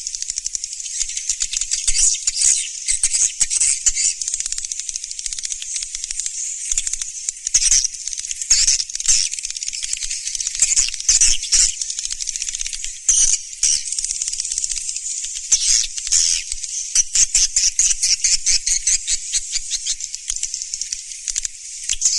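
Swiftlet calls, the kind played as a lure for edible-nest swiftlets: a dense, unbroken high-pitched chattering of rapid clicks and twitters.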